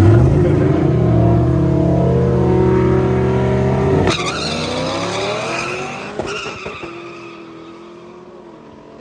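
A car accelerating hard away, its engine pitch climbing, with a gear change about four seconds in. It keeps pulling and fades as it gets farther off.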